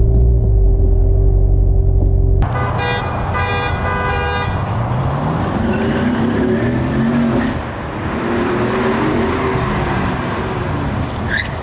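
Chevrolet Corvette Stingray's V8 rumbling at the start line, then the launch about two and a half seconds in with a brief horn-like toot, and the engine running on with its pitch rising and falling. The engine is held to about 2,000 rpm, a power cut the driver puts down to an overheated transmission.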